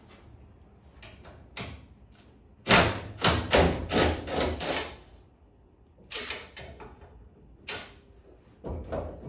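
A series of knocks and thuds: about six loud knocks in quick succession a few seconds in, then a few more spaced apart near the end.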